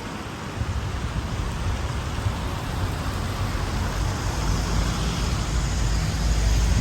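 Street traffic in the rain: a vehicle's low rumble grows louder towards the end over a steady hiss of rain and wet road.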